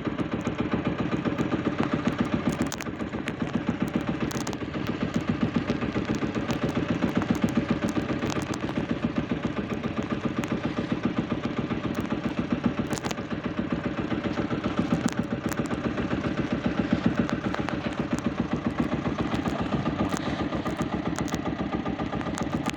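A fishing boat's engine running steadily at a low, even chug, its rapid regular firing pulses going on without a break.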